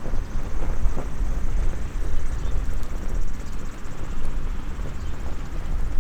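Wind buffeting the microphone in an uneven low rumble, with a few faint crackles from a small wood fire in a compact fire stand.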